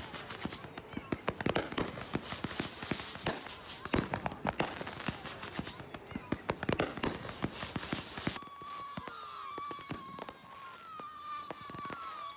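Fireworks crackling and popping in rapid, dense volleys, with a few falling whistles among the cracks. About eight seconds in the crackle drops away abruptly and a steady high whistling tone runs on with scattered pops.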